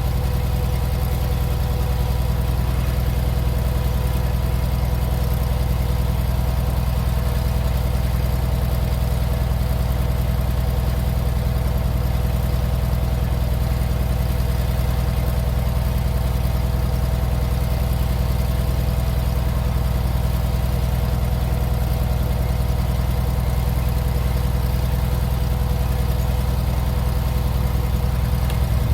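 Tractor engine running steadily at one speed, freshly started. It fitted with new spark plugs.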